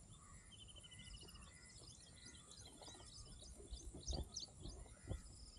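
Faint birdsong: many scattered short high chirps, with a quick trill or two. A few soft low thumps come about four and five seconds in.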